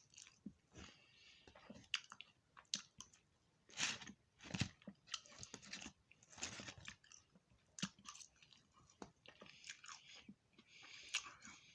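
A person chewing and crunching food in irregular bites and chews, some louder crunches among quieter mouth sounds.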